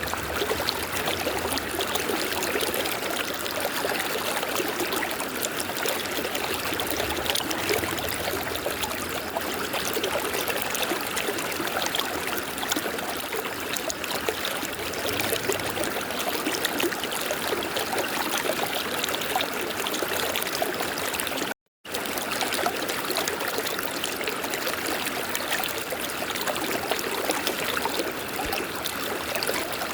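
River water flowing steadily. The sound cuts out completely for an instant about two-thirds of the way through.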